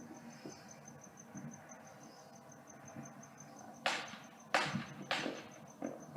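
Crickets chirping in a fast, steady pulse, with three sharp firework bangs about four seconds in, each trailing off, and a smaller pop near the end.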